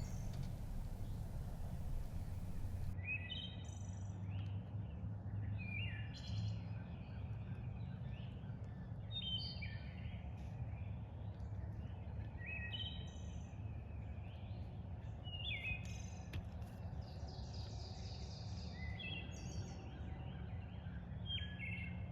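Small birds chirping and singing in short, repeated high calls over a steady low background rumble of outdoor ambience.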